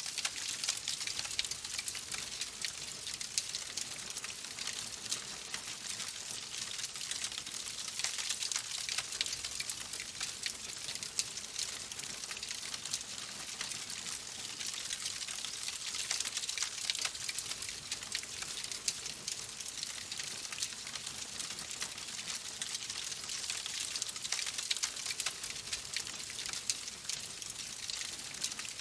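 Wood fire in a fireplace crackling: a dense, continuous stream of small pops and snaps over a steady hiss.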